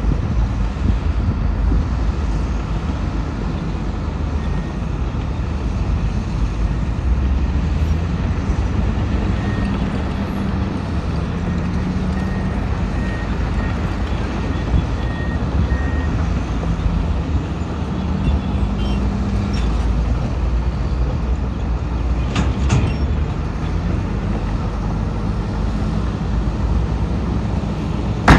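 Heavy diesel earthmoving machinery running steadily with a deep engine rumble. Faint repeated beeps of a reversing alarm sound through the middle, and a brief metallic clatter comes about three quarters of the way in.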